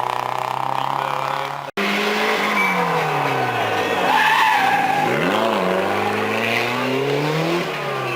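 Classic rally car engine running hard. After an abrupt cut about two seconds in, the engine note falls as the car slows, dips and rises with a quick rev, then climbs again as it accelerates, with tyres squealing.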